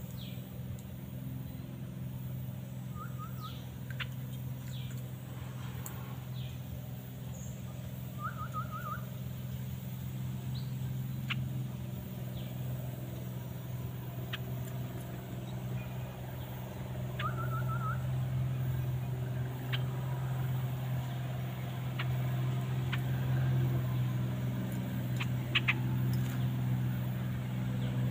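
Steady low mechanical drone throughout, growing louder in the second half. Over it, a few short trilled bird calls come three times, with scattered brief chirps.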